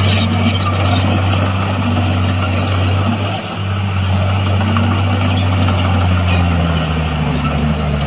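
Heavy diesel engine of earthmoving machinery running steadily, its pitch easing down a little about two-thirds of the way through.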